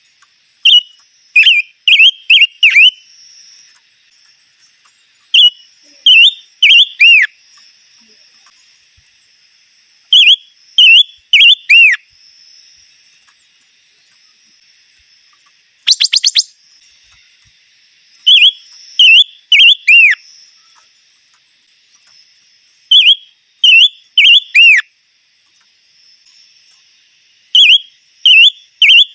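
A songbird, the 'chim ngũ sắc', singing phrases of four or five clear whistled notes that fall in pitch, repeated about every four to five seconds. A brief harsh call comes about halfway through, and a faint steady high hum runs underneath.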